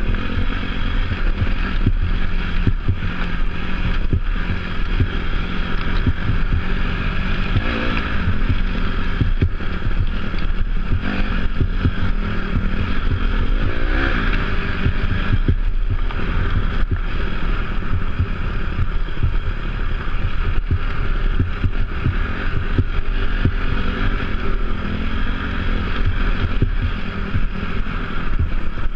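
Off-road dirt bike engine running while riding, with its pitch swelling a few times as the throttle is opened, over wind noise on the microphone and frequent knocks and rattles.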